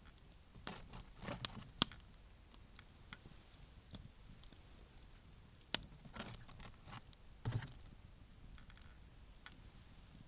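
Wood campfire crackling, with scattered sharp pops and snaps: a cluster about one to two seconds in and more around six to seven and a half seconds, a couple with a duller knock.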